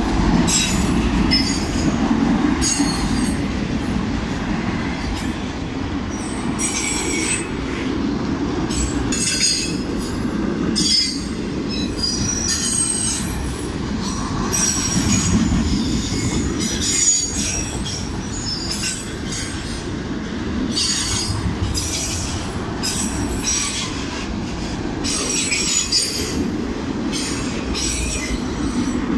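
CSX freight train's cars rolling past: a steady rumble of steel wheels on rail, with high-pitched wheel squeal coming and going.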